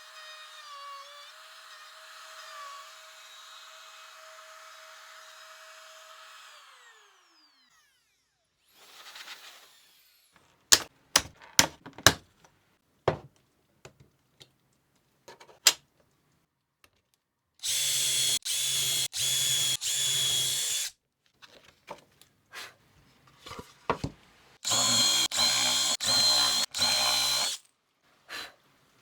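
A power tool's motor runs steadily with a high whine, then winds down about seven seconds in. Scattered knocks of wood and tools follow, then a power drill is run in two spells of about three seconds each, each broken into several short trigger pulses.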